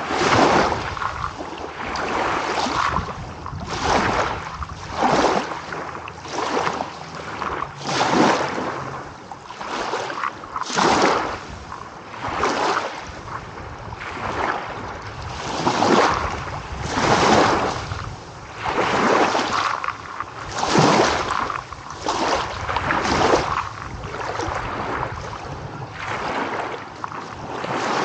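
Small waves breaking and washing in, one surge of rushing water every second or two.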